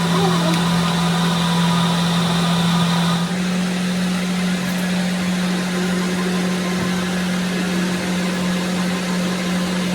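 A machine running with a steady low hum; the sound shifts slightly about three seconds in.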